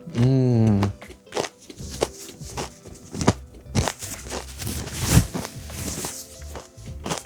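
Close-up chewing of a crispy fried-chicken-coated corn dog: irregular crunches and wet mouth clicks. There is a short, loud hummed "mmm" about a second in, over background music.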